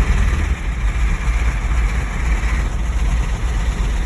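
1971 Ford F600's engine running roughly, a low uneven rumble with heavy vibration. It is unhappy: the engine has a loose connecting rod and a JB Weld patch over a hole in the block. A hiss sits over the first two and a half seconds or so.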